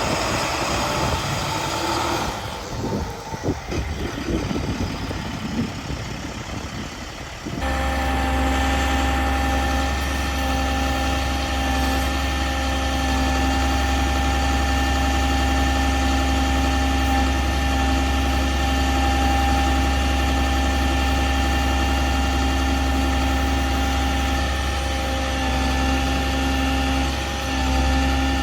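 International 4400 bucket truck's diesel engine running at idle. About seven seconds in, the sound changes abruptly from uneven, rattly noise to a steady drone with a strong low hum.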